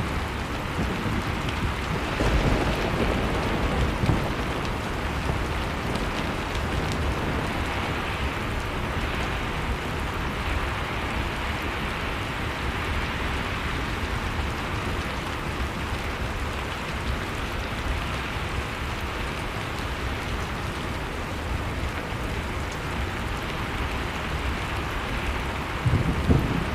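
Wood fire crackling in a fireplace over the steady noise of blizzard wind, with low rumbling gusts swelling about two seconds in and again near the end.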